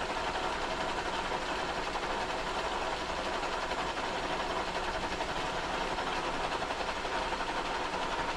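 Kearney & Trecker 2HL horizontal milling machine running steadily while its cutter takes a light pass across a cast iron straight edge, with a steady machine hum and tone.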